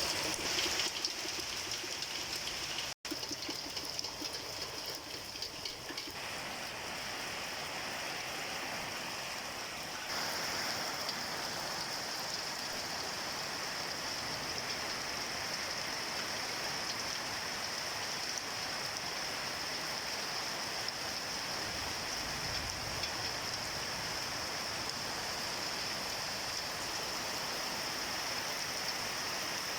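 Heavy rain falling, a steady even hiss of rain and running rainwater. It cuts out for an instant about three seconds in and is a little louder from about ten seconds on.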